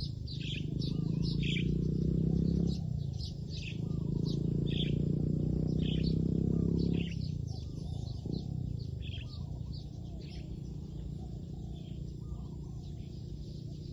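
Small birds chirping busily in quick, high notes. A loud steady low rumble runs under them for the first seven seconds, with a short break a little under three seconds in, then stops.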